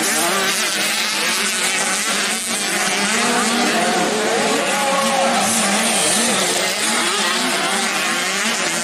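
Several small 85cc dirt-bike engines racing together, their pitches overlapping and rising and falling as the riders rev and shift.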